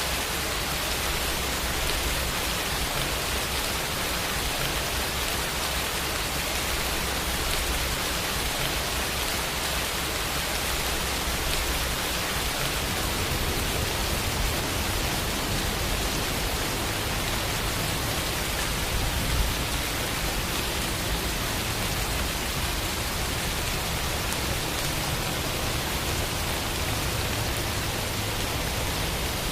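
Steady rain falling, an even hiss with no other sounds.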